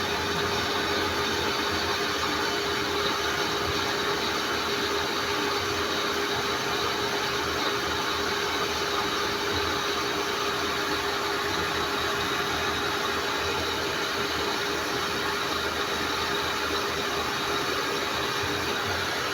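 Electric water pump of a pressure tank system running steadily, a constant even noise with a steady hum, pumping as the tank fills toward the pressure switch's cut-off.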